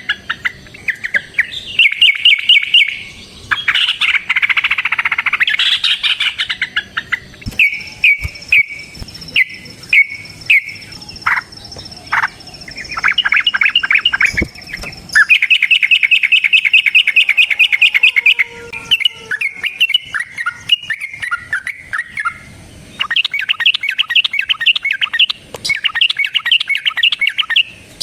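Yellow-vented bulbul (trucukan) singing its long, fast chattering song: loud rattling runs of rapidly repeated notes, each phrase lasting one to several seconds with short pauses between.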